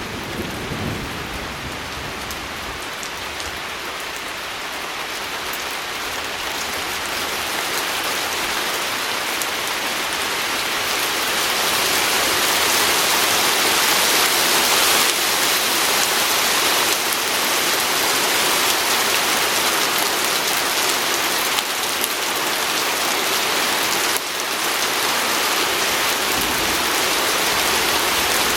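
Steady rain pattering on a window pane, growing heavier over the first ten seconds or so and then holding steady. A low rumble of thunder dies away in the first second.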